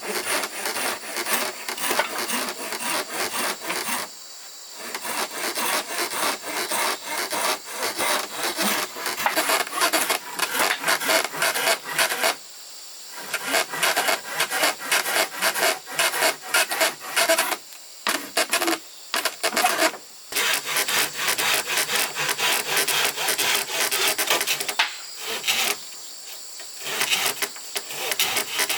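Hand saw cutting through wood in fast, rhythmic strokes, stopping briefly several times, over a steady high drone of insects.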